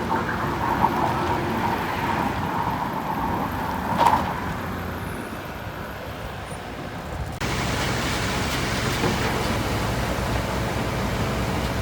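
Diesel engine of heavy earthmoving machinery running steadily, with one sharp metallic clank about four seconds in. About seven seconds in the sound changes abruptly to a louder, fuller engine noise.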